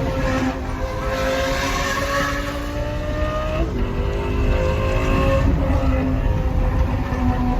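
Lamborghini Gallardo Superleggera's 5.0 litre V10 through an aftermarket exhaust, pulling under acceleration with its pitch climbing. About three and a half seconds in, the pitch drops sharply at an upshift, then the engine climbs again.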